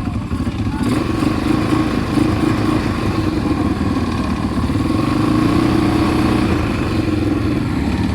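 ATV engine running while riding, its pitch rising a little about a second in and then holding fairly steady.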